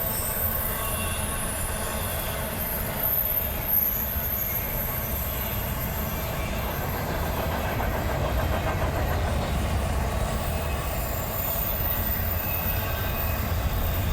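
Freight train cars rolling past: a steady low rumble of wheels on rail, with high-pitched wheel squeal coming and going.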